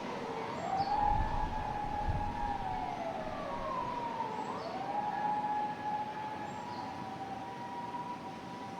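Emergency vehicle siren wailing, its pitch sweeping slowly up and down, then holding steady near the end. Strong wind hisses throughout and buffets the microphone about a second in.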